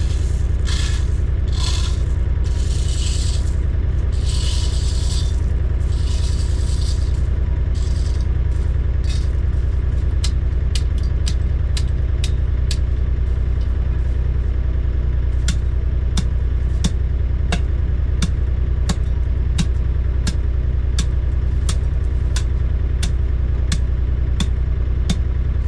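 A heavy machine's engine running steadily with a low rumble. Scraping and rattling bursts come in the first several seconds, and from about ten seconds in there are sharp clicks or knocks every half second or so.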